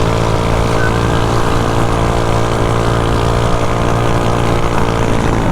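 Mini bike's small single-cylinder engine running at a steady speed under way, with wind rushing over the chin-mounted helmet microphone.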